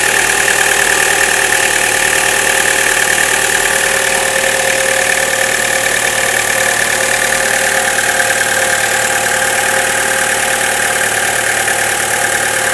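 Chevrolet Cruze engine idling from a cold start in sub-zero cold, with a steady high-pitched tone over the idle. The owner hears a ringing knock on cold starts below freezing that fades after about a minute of running.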